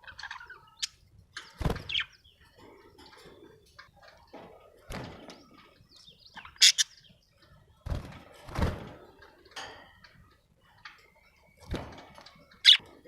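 Budgerigar chirping: scattered short, sharp chirps, the two loudest about halfway through and near the end, among several dull thumps or knocks.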